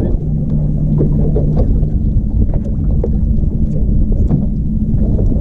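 Fishing boat's outboard motor running steadily under way, with wind rushing over the microphone and scattered knocks throughout.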